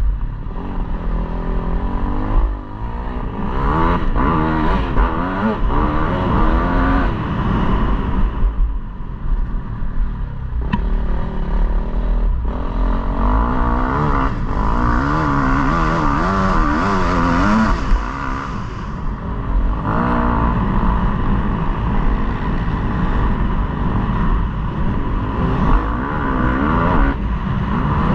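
KTM 250 motocross bike engine revving hard and easing off again and again as it is ridden round the track, the pitch climbing and falling with each throttle burst. Several short lulls where the throttle is shut, the longest about two thirds of the way through.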